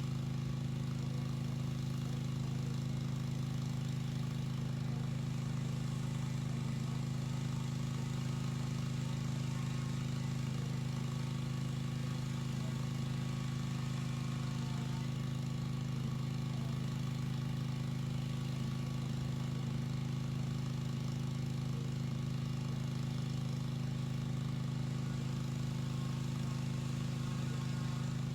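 A pressure washer's small engine running steadily at a constant pitch, with no change in speed.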